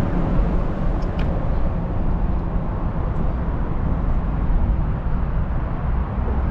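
Fishing boat's motor running steadily, a low rumble with hiss.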